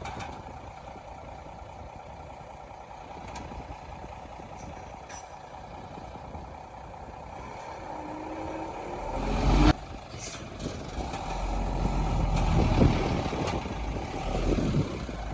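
Heavy diesel engine of earthmoving machinery running steadily, swelling to a loud peak about nine and a half seconds in that cuts off suddenly, then a louder deep rumble for a few seconds near the end.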